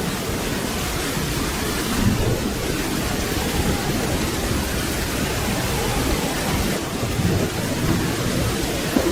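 Steady rain with a low rumble of distant thunder underneath, swelling a couple of times.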